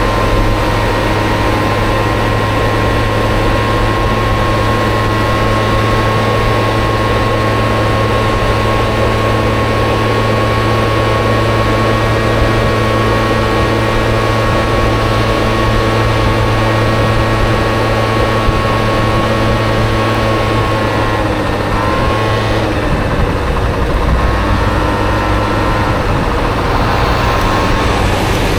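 Honda Dio scooter engine in a Honda Motocompo running at a steady idle, then its pitch changes and rises from about 22 seconds in as it revs and pulls away.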